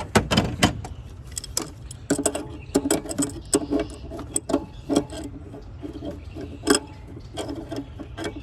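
Hand ratchet wrench clicking in short, uneven strokes as a bolt that has just broken loose is turned out.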